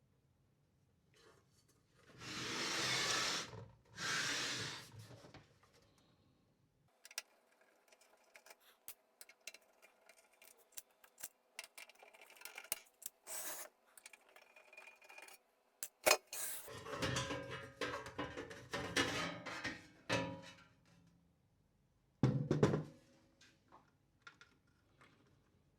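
Taking apart a UPS chassis by hand: two long scraping slides near the start, then a run of small clicks, knocks and rattles of parts and tools being handled.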